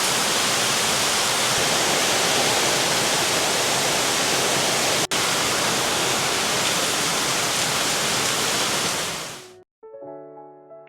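Steady, loud rush of heavy rain, cut off briefly about five seconds in and fading out near the end, where soft piano music begins.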